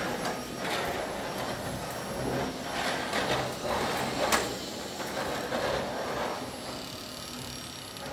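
Vacuum cleaner running with a steady high whine, its nozzle swishing back and forth over the floor in strokes a second or two apart; one sharper stroke about four seconds in.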